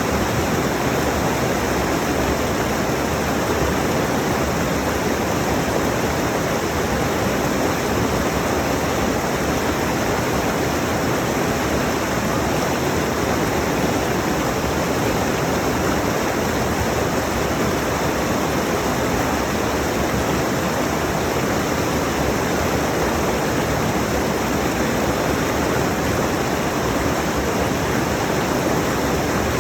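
Rushing mountain stream: a steady, unbroken hiss of fast water over rocks, close to the microphone.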